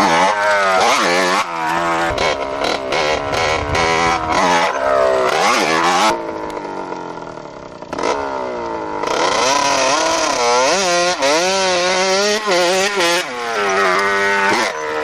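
Motorcycle engine revving hard, its pitch climbing and dropping again and again. It eases off with a falling pitch about six seconds in, then picks up and revs on.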